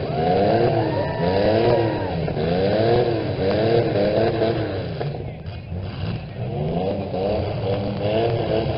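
Demolition derby small truck's engine revving up and down over and over, roughly once a second, with a short lull about five seconds in before the revving picks up again.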